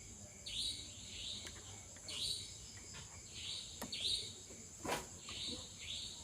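A bird giving short raspy calls, over and over about one to two times a second, over a steady high-pitched insect drone. A sharp click comes just before the four-second mark and a louder knock about five seconds in.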